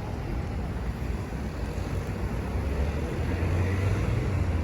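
City street traffic noise: a steady wash of passing vehicles, with a low engine rumble that grows louder over the last second or so as a vehicle draws near.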